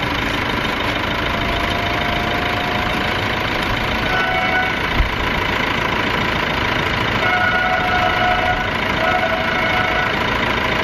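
Car engine idling steadily, with one short low thump about halfway through.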